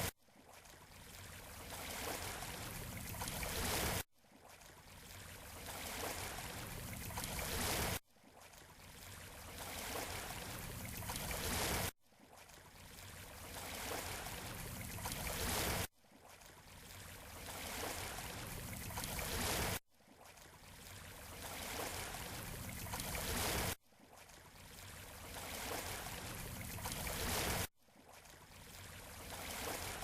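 Beach shore surf noise, an even rushing wash that swells over about four seconds and then cuts off abruptly, repeating the same way about every four seconds: a short recording played in a loop.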